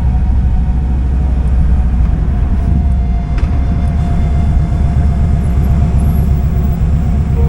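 Kawasaki Vulcan 2000's big V-twin engine running at low speed, a steady loud pulsing rumble.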